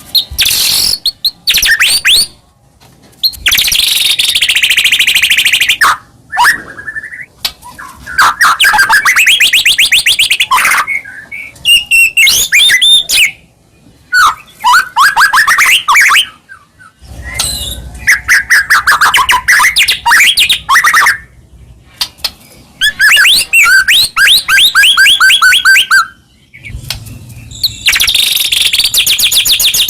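White-rumped shama (murai batu) singing loud, varied phrases of rapid trills and repeated whistled notes, in bursts of a second or two with short pauses between.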